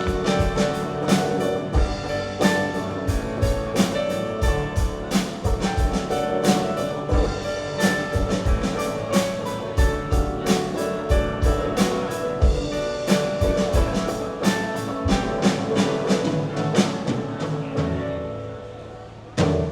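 Live rock band playing the instrumental close of a song: drum kit beating steadily under sustained keyboard and guitar chords. It winds down near the end and finishes on one last loud hit that rings out.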